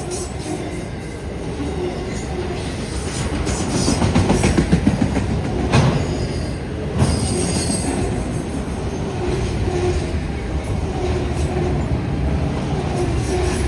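Freight train cars rolling past on the rails, a steady rumble of wheels on track with two sharp clanks about six and seven seconds in.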